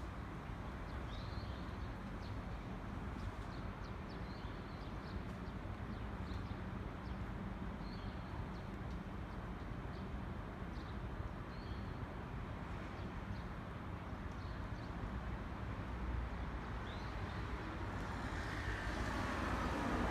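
Steady outdoor rumble of distant traffic, with a small bird chirping briefly every second or so. In the last two seconds a rushing noise grows louder.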